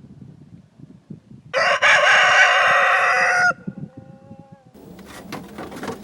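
A single loud, pitched call about two seconds long, starting about a second and a half in and trailing off into a fainter held tone. Soft clicks and rustling follow near the end.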